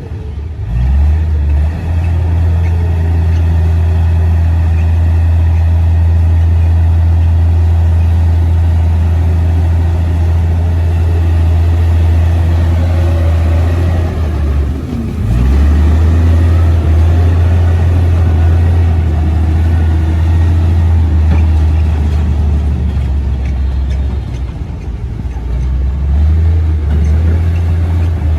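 Komatsu D58P crawler bulldozer's diesel engine running steadily under load. The engine note briefly drops and recovers about halfway through, and softens again near the end.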